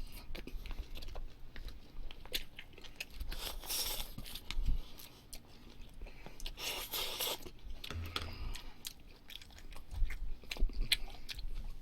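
A person chewing and biting food close to the microphone, with wet mouth clicks and two longer crunchy stretches, about four and seven seconds in: eating wood-fired barbecue pork belly and duck with radish wraps.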